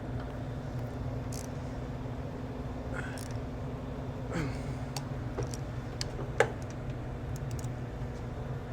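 Scattered light clicks and taps of tools and metal parts being handled, with one sharper click about six and a half seconds in, over a steady low electrical hum.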